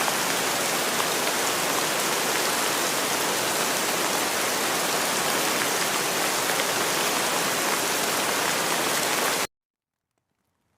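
Steady rain falling, a dense even hiss with faint drop ticks, that cuts off abruptly to silence about a second before the end.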